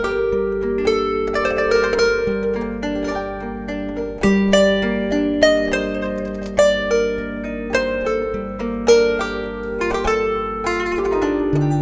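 Kanun, the Turkish plucked zither, played solo: a melody of quickly plucked notes that ring on over held lower notes.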